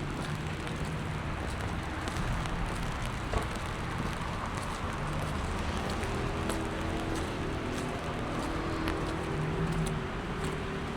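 Steady rain ambience on a wet street, with faint scattered drip ticks under a low hum of vehicle traffic; a second, higher hum joins about six seconds in.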